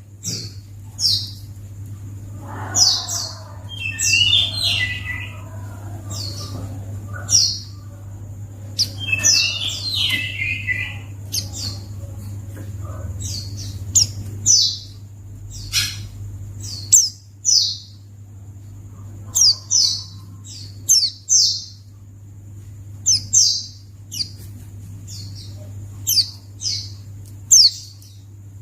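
White-eye (pleci) calling: a string of short, high chirps a second or so apart, with two brief twittering song phrases about three and nine seconds in. A steady low hum runs underneath.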